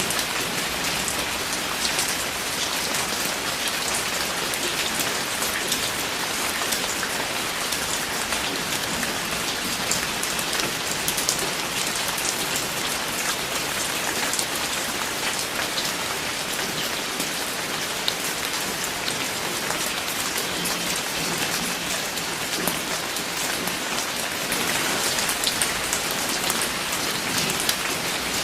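Steady rain falling, an even hiss dense with the fine patter of individual drops striking a surface.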